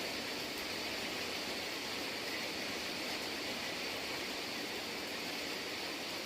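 Steady rain falling, an even hiss with no individual drops or breaks standing out.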